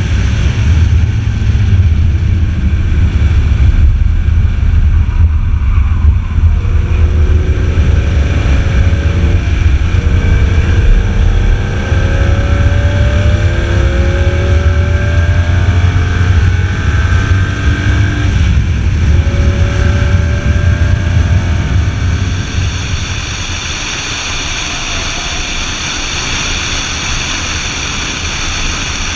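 BMW Z4 M Roadster's S54 straight-six running hard on track, its pitch rising and falling again and again as it accelerates and shifts, over a heavy low rumble. About 22 seconds in, the low rumble drops away and the sound turns quieter and steadier.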